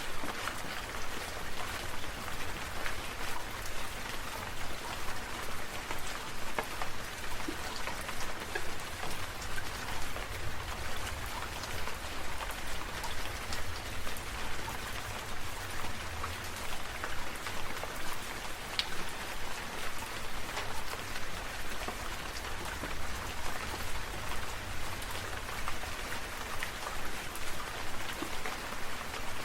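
Dense patter of water drops falling on a surface, a steady hiss of fine ticks over a low rumble, swelling in a regular pulse about three times every two seconds.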